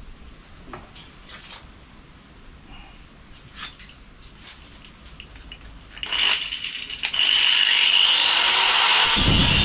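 A few light knocks and clicks of sheet steel being handled, then about seven seconds in a power tool starts and runs loudly, its whine rising as it speeds up. Near the end it bites into the sheet steel, cutting a slit.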